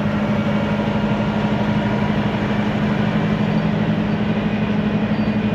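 Semi-truck diesel engine idling with a steady, even hum.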